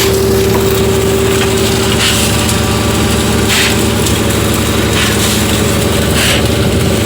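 Fishing boat's engine running steadily, with four short rushing noises laid over it.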